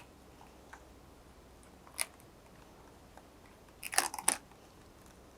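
Quiet room tone broken by a single click about two seconds in and a brief burst of crinkling, crackling clicks about four seconds in: small hand-handling sounds of the removed adhesive tape and the laptop's plastic display parts.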